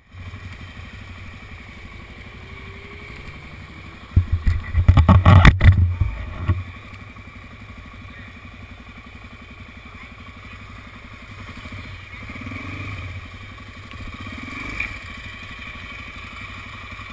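Motorcycle engine running steadily. About four seconds in comes a loud, rough burst lasting a couple of seconds.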